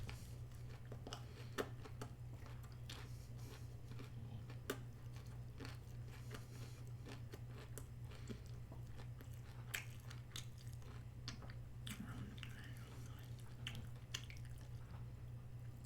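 A person chewing and biting food close to the microphone: many small, irregular wet clicks and crunches, over a steady low hum.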